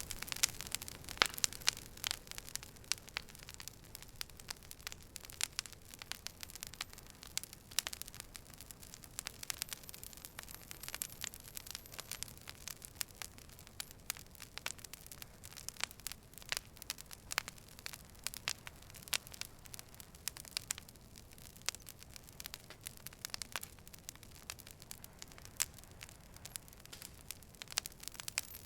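Campfire crackling: wood burning with frequent sharp, irregular pops and snaps over a soft hiss.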